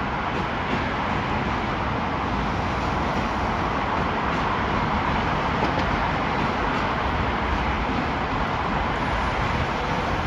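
Steady, even rushing noise of a vehicle in motion, holding the same level throughout with no distinct knocks or tones.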